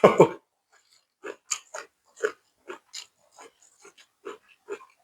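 A short burst of voice at the start, then open-mouthed chewing: a run of short wet smacks, two or three a second, as a mouthful of food is eaten.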